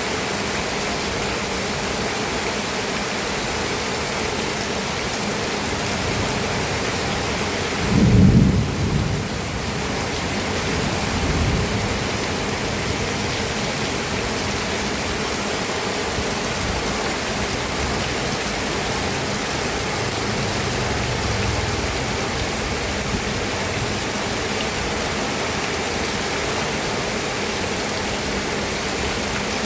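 Steady rain falling, with a low rumble of thunder about eight seconds in and fainter rumbles a few seconds later and again near twenty seconds.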